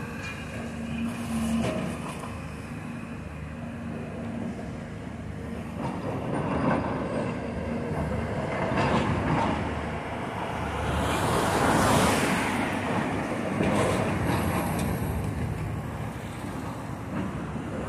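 Motor vehicle engines running, with a steady low hum at first and then broad swells of engine noise that rise and fade several times, loudest past the middle.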